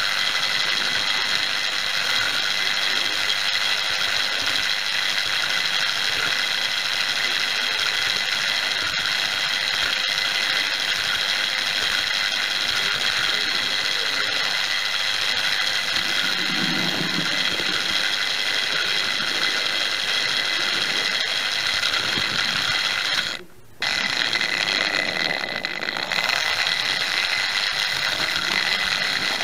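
Hornby Dublo three-rail model locomotive chassis running along the track, its electric motor and gears making a steady high whine mixed with wheel noise on the rails. The sound cuts out for about half a second about 23 seconds in, then resumes.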